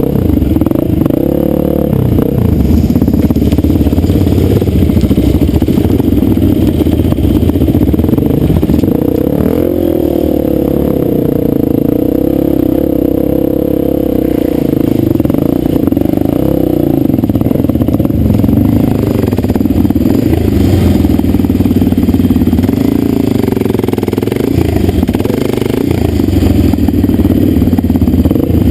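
Dirt bike engine running hard under way, its pitch rising and falling as the throttle is worked.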